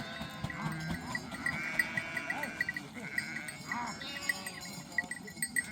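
Flock of sheep and goats bleating, with many small livestock bells clinking irregularly.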